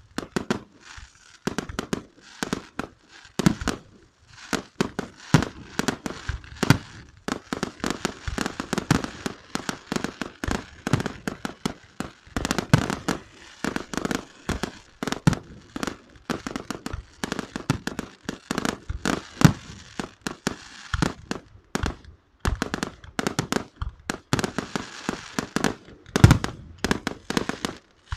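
Fireworks and firecrackers going off nonstop: a dense run of sharp bangs and crackling, several a second, with a few louder bangs standing out.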